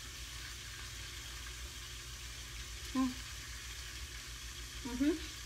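Steady sizzle of green beans frying in bacon grease in a covered pan. Two short hums of a voice cut in, about three and five seconds in, from someone tasting food that is still hot.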